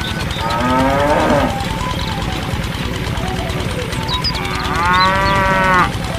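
A cow mooing twice: a shorter moo about half a second in and a longer, louder one near the end, over a steady low rumble.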